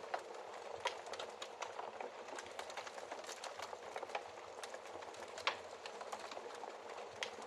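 Wood fire crackling in a fireplace: a steady soft hiss with many small irregular pops, and sharper pops about a second in and again about five and a half seconds in.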